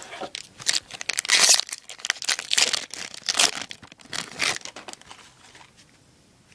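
Baseball card pack wrapper being torn open and handled, a quick run of irregular rustles that dies away about five seconds in.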